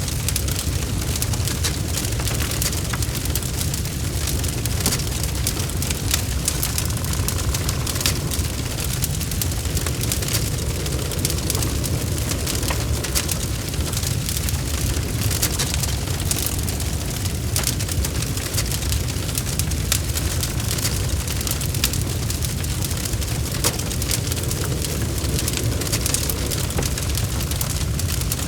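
Wood fire burning in a fireplace: a steady low rumble of flames with many sharp crackles and pops from the burning logs.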